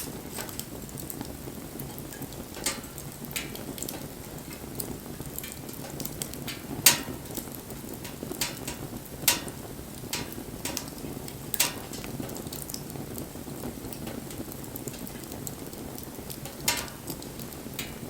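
Wood campfire burning with a steady low crackle and irregular sharp pops from the burning wood, a few of them much louder than the rest.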